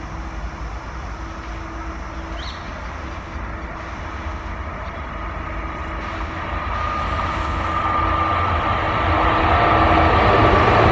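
Express train hauled by an electric locomotive approaching at speed, its running noise swelling steadily. About halfway through a high steady whine joins it, dipping slightly in pitch near the end as the train draws close.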